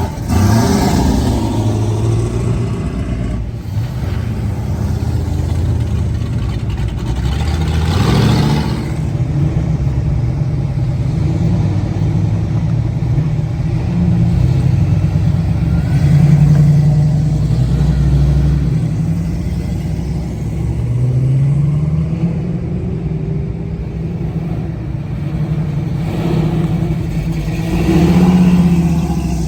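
Car engine running with a deep, steady rumble, its revs rising and falling a few times.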